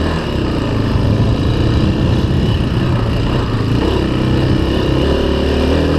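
Small off-road vehicle engine running steadily under way, its pitch rising and falling a little with the throttle, over the rush of riding noise.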